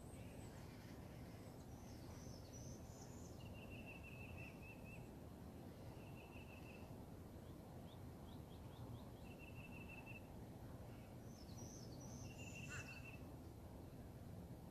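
Faint birdsong over steady low background noise: one bird gives a short rapid trill, repeated about every three seconds, and higher chirps come twice, early on and near the end.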